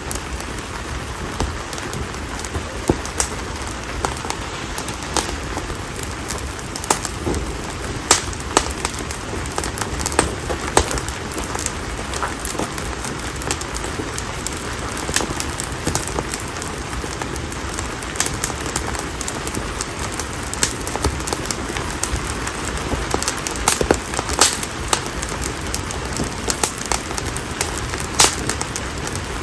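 Split konara oak (Quercus serrata) firewood burning in an open campfire: a steady hiss of flames with frequent, irregular sharp crackles and occasional louder pops.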